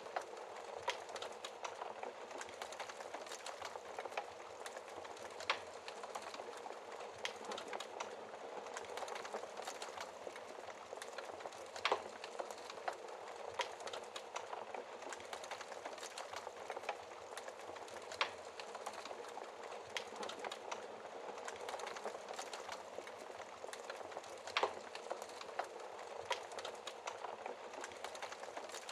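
Wood fire crackling in a fireplace: a steady soft hiss with frequent small pops and snaps, and a few louder pops spread out among them.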